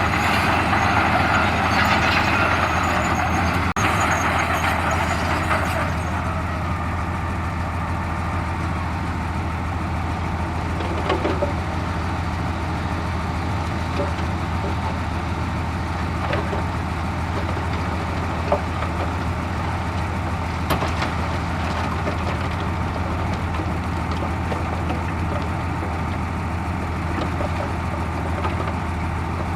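Heavy diesel engine of a construction machine running steadily, with a louder rushing noise over it for about the first six seconds and a few sharp knocks later on.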